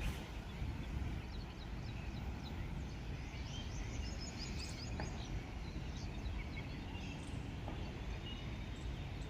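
Birds chirping in quick, short high calls, thickest between about one and five seconds in, over a steady low rumble of outdoor noise.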